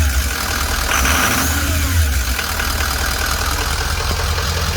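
Ford 6.0L Power Stroke turbo diesel V8 idling smoothly after a fresh start, with a brief higher-pitched surge about a second in that falls back, then settles to a high, steady idle.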